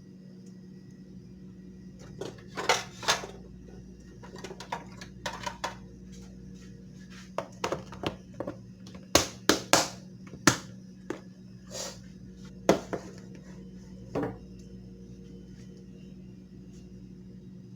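Metal knife blades clinking: a dozen or more sharp, irregular clicks and clanks spread over several seconds, over a steady low hum.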